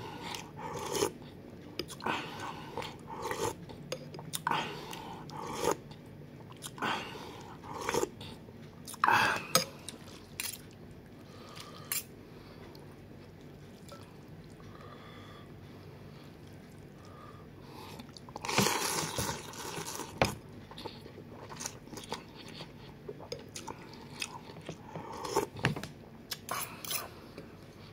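Close-up eating of noodles in broth: irregular chewing and biting noises, with a quieter stretch in the middle. A louder noisy burst of about a second and a half comes about two-thirds of the way through.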